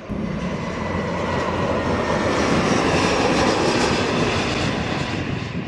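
Jet airliner passing close by. A dense engine rush swells to its loudest about three to four seconds in, then begins to fade.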